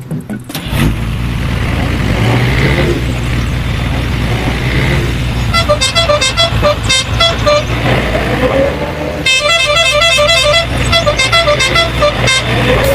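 Truck engine running steadily, with the horn sounding in rapid repeated toots in two spells, about six and nine seconds in.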